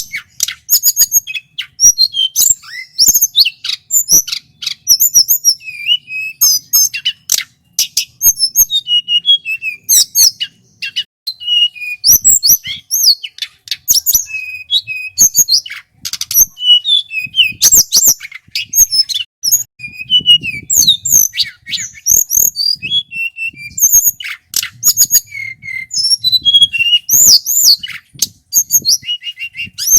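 Male tledekan gunung singing continuously: a rapid run of short, high whistled notes, chirps and trills with quick pitch glides, loud and clear.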